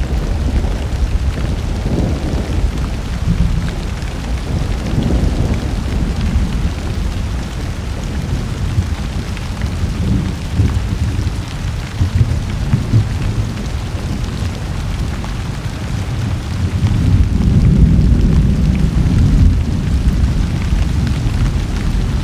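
Thunderstorm: steady rain with low thunder rumbling throughout, the rumble growing louder for a few seconds near the end.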